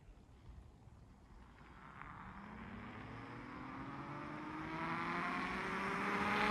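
Electric minibike approaching: a whine that starts about two seconds in and rises steadily in pitch as it grows louder, over a low rushing of tyres on the road.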